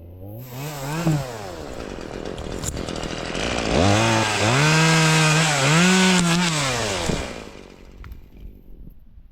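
Chainsaw blipped up briefly about half a second in, then run at full throttle for about three seconds with one short dip, cutting through a tree limb, before winding down about seven seconds in.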